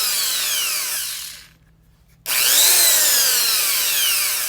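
Power drill motor whining at high speed in two runs, its pitch sliding down during each. The first run ends about a second and a half in, and the second starts sharply shortly after. The drill is being abused to the point that its motor is smoking.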